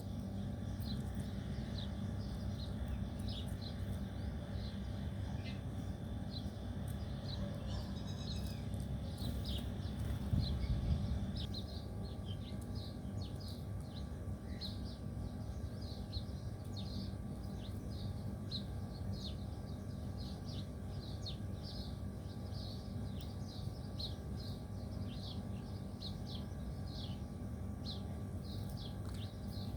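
Small birds chirping: a steady run of short, high, repeated chirps, a few per second. Underneath is a steady low rumble, which swells briefly about ten seconds in.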